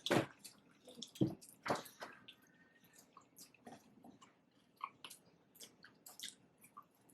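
Close-up chewing of a fried chicken sandwich: wet mouth smacks and crunchy bites, a string of short clicks with a few louder ones in the first two seconds.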